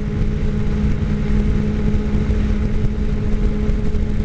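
Motorcycle running at a steady cruising speed: a constant engine drone that holds one pitch, over a dense rushing noise.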